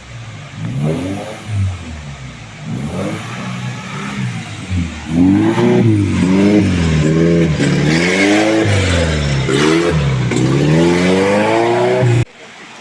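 Off-road 4x4's engine revving up and down over and over, louder from about five seconds in, then cutting off abruptly near the end.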